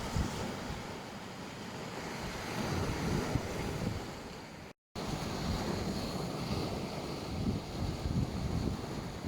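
Sea waves washing onto a beach, with wind rumbling on the microphone. The sound cuts out completely for a split second near the middle.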